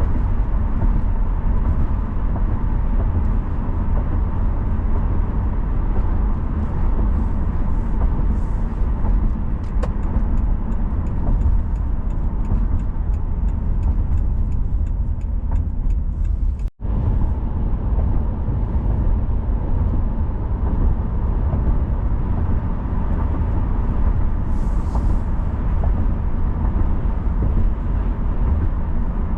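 Steady driving noise of a car on the road: a continuous low rumble of tyres and engine. The sound cuts out for an instant about two-thirds of the way through.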